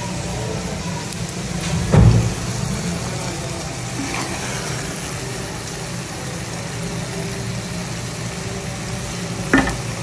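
Crumb-coated cutlets shallow-frying in oil on a flat pan, a steady sizzle, with a thump about two seconds in. Later a wooden spatula stirs a thick curry in a pan, with a knock near the end.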